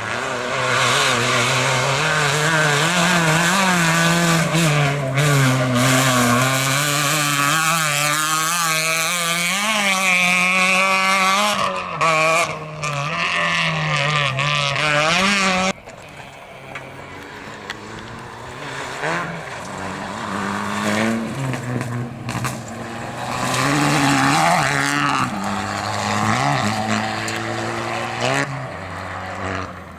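Rally car engine revving hard, its pitch rising and falling through the gears, with a heavy noise of tyres and gravel. About halfway through it cuts off abruptly, and a quieter car is heard revving up and down.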